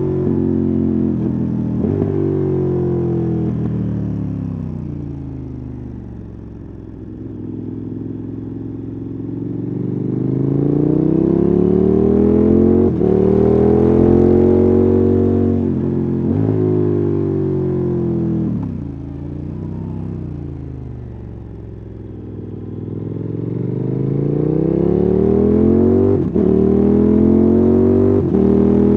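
KTM 1290 Super Adventure S V-twin engine and exhaust under way. The pitch falls as the rider backs off the throttle, then climbs again as the bike pulls away, twice, with a few short breaks where it gets shifted.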